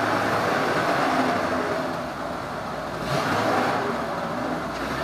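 Heavy machinery engine running and revving, swelling louder twice.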